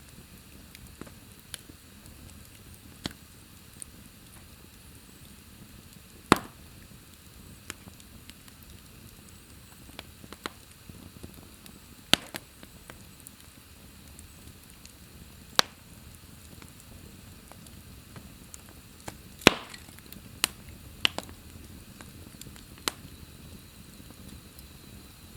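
Wood fire burning in a fireplace: a soft steady hiss with irregular sharp crackles and pops, the loudest pops about six, twelve, fifteen and nineteen seconds in.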